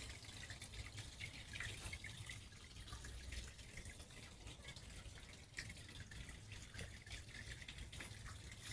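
Small backyard-pond waterfall, water trickling and splashing faintly and steadily into the pond with many small drips.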